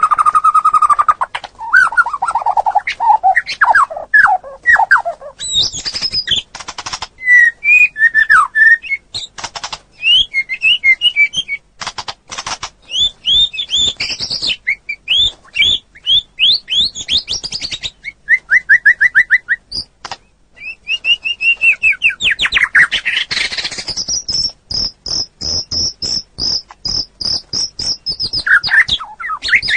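Songbird singing a long, varied song: whistled notes falling in pitch, quick trills, and a long fast high trill near the end, with sharp clicking notes between phrases.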